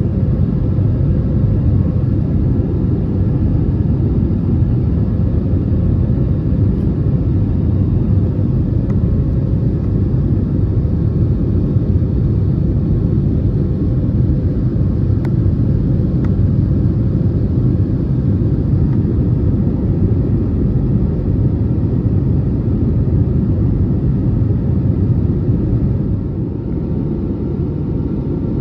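Cabin noise of an Airbus A320neo during takeoff and climb, engines at high thrust: a loud, steady low rumble with a faint hum. It eases slightly near the end.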